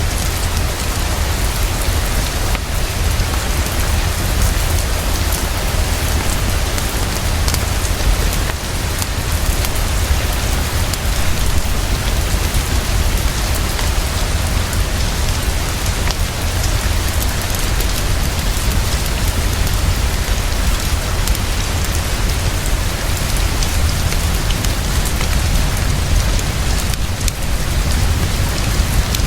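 Heavy, fast, steady rainfall with a constant deep rumble underneath, mixed with scattered sharp crackles from a wood fire in a fireplace.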